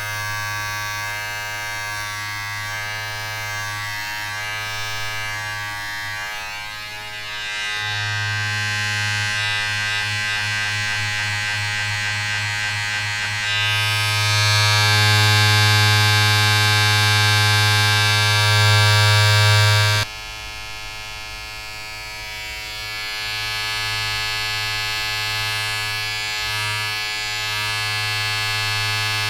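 A steady electric buzz with a strong low hum and many even overtones, like a small motor-driven appliance. It gets louder and brighter about eight seconds in and again near fourteen seconds, then drops suddenly to a quieter, duller buzz about twenty seconds in.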